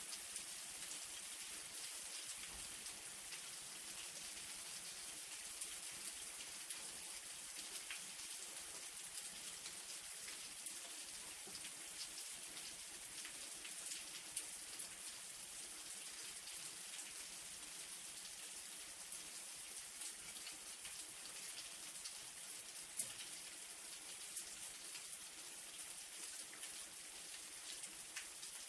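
Light rain falling steadily: a soft, even hiss dotted with the ticks of individual drops striking a surface.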